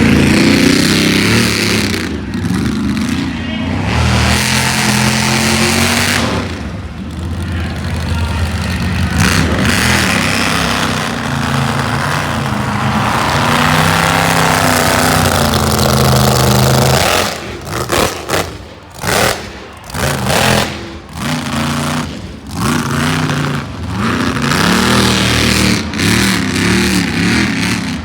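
Monster truck engine revving hard under heavy throttle, its pitch climbing and falling. In the second half the throttle is blipped, the engine sound dropping away and returning several times in quick succession.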